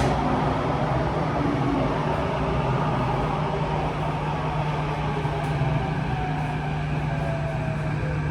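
Interior running noise of a Kawasaki–CRRC Sifang T251 metro train slowing into a station: a steady rumble and hum, with a faint whine falling in pitch as it brakes in the last few seconds.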